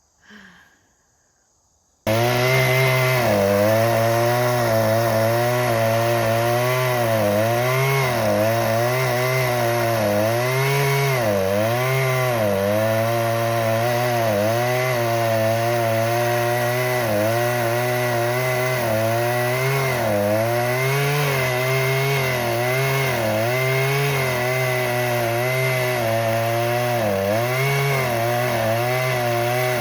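Two-stroke chainsaw running hard, its engine pitch dipping and recovering again and again as the chain bites into wood. It starts suddenly about two seconds in, after near silence.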